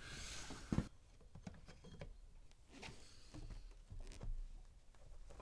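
Faint scattered clicks and light knocks of hand tools being handled, with one sharper click just under a second in.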